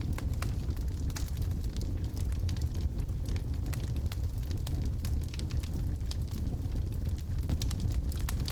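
Wood logs burning in a fireplace, crackling with frequent small, irregular pops over a steady low rumble of the flames.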